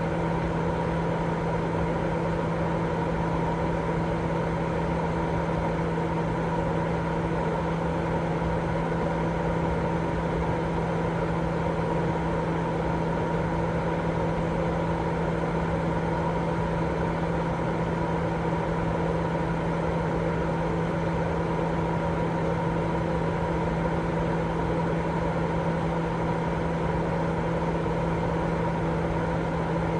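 Continuous white noise for sleep: an unbroken, even hiss weighted to the low and middle range, with a steady low hum running through it.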